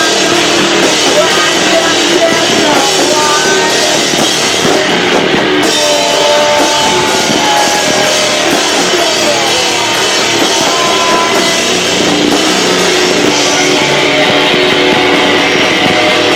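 Live rock band playing loud, with drum kit and electric guitar, recorded on a video camera microphone that is overloaded by the volume, so the sound is distorted and flattened.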